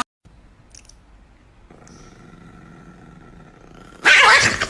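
Chihuahua growling loudly and suddenly about four seconds in, after a few seconds of quiet.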